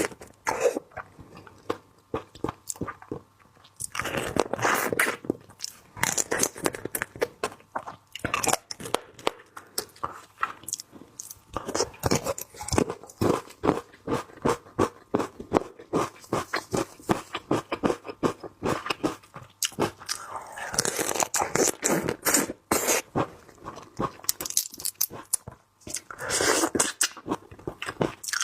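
Close-up sounds of a person chewing and crunching seafood: many quick, sharp clicks, with louder stretches of crunching every few seconds.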